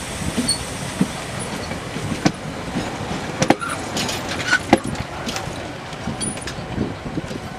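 Passenger train coaches rolling past close by: a steady rumble of wheels on the rails, with a sharp clack about every second and a quarter.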